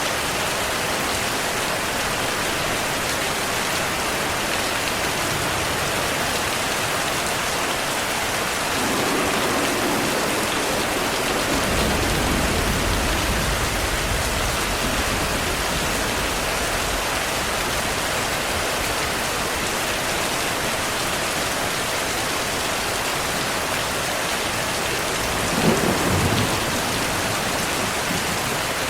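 Steady heavy rain with thunder: a long low rumble swells from about nine seconds in and lasts several seconds, and a sharper thunderclap sounds near the end.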